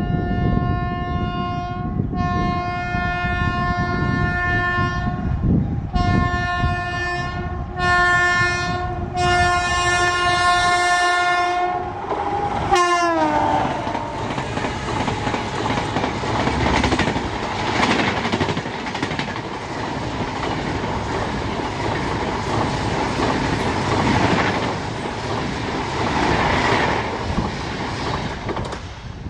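Passing express train: the electric locomotive sounds its horn in about five blasts, the last one long and dropping sharply in pitch as the locomotive goes by. Then the LHB coaches rush past at high speed, their wheels rumbling and clattering steadily on the track.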